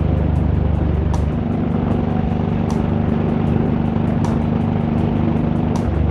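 Honda VTX1800 cruiser's V-twin engine running steadily under way, mixed with background music with a steady beat.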